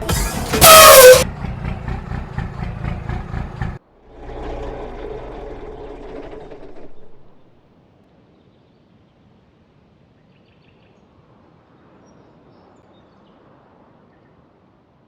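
A vehicle's reversing sounds. About a second in comes a very loud, short blast whose pitch falls, over a running engine with a regular pulsing that cuts off suddenly just before four seconds. A quieter steady sound follows until about seven seconds.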